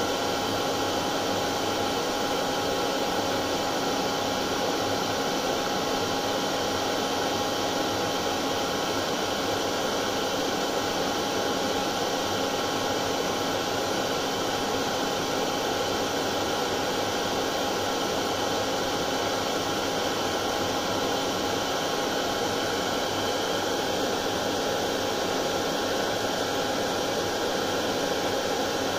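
Hair dryer running steadily: an even rushing noise of the fan, with a steady motor whine held throughout.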